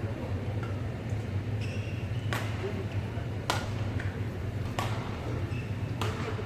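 Badminton rally: sharp racket strikes on the shuttlecock about once every second or so, four in all, with short shoe squeaks on the court floor over a steady low hum.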